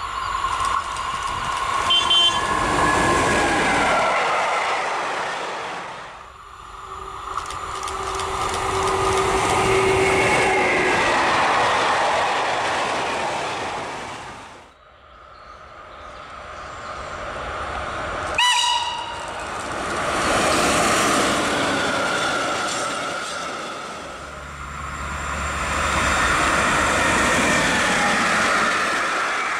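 Freight trains hauled by electric locomotives passing one after another, wheels and wagons rolling and rattling along the rails, each pass swelling and then fading. A short locomotive horn blast sounds about two seconds in and another a little past the middle.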